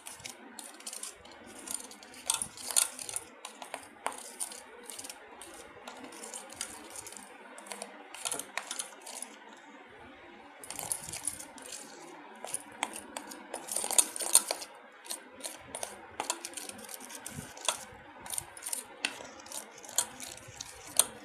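A spoon beating butter and icing sugar together in a bowl. The spoon clinks and scrapes against the bowl in an irregular run of sharp ticks, some louder than others.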